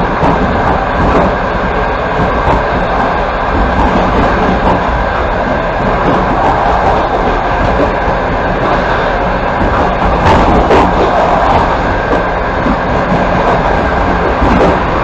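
Passenger train running along the track, heard from inside a carriage: a steady rumble of wheels on rails, with two sharp clicks close together about ten seconds in.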